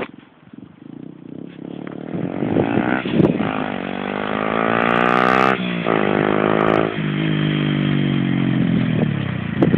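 Honda CBF125's single-cylinder engine through a Red Scorpion aftermarket exhaust, pulling away and changing up through the gears. The note rises and drops back at each of three shifts, growing louder as the bike comes closer.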